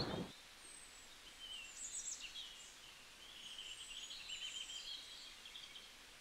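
Faint birdsong: small birds chirping and trilling over a soft background hiss, as the last of a loud crash dies away in the first moment.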